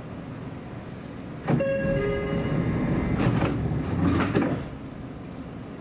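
Seibu Railway electric train: a short horn blast of two steady tones about a second and a half in, then a loud rush and rail clatter for about three seconds, as of a train passing close by. The steady running noise of the train carries on underneath.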